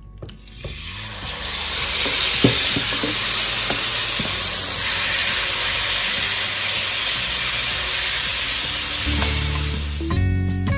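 Chicken breast pieces in a yogurt marinade frying in a hot, lightly oiled grill pan. A loud sizzle swells up over the first couple of seconds as the chicken goes in and then holds steady, with a few knocks of a wooden spatula stirring. Guitar music comes in near the end.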